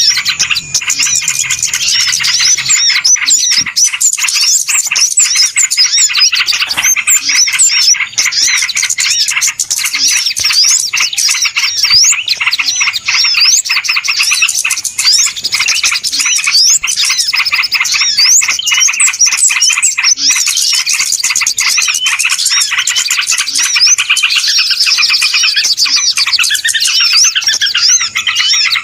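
Dense, continuous chorus of many small birds chirping and twittering over one another: a bird-lure recording ('suara pikat') meant to draw small birds in.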